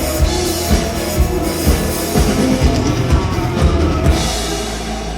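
Live rock band playing the instrumental ending of a song, with a driving drum kit beat. The drums stop about four seconds in and the held chords ring on as the song closes.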